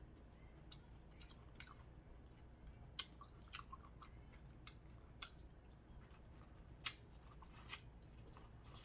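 A person chewing food close to the microphone, faintly, with scattered wet mouth clicks and smacks, a few sharper ones about three, five and seven seconds in.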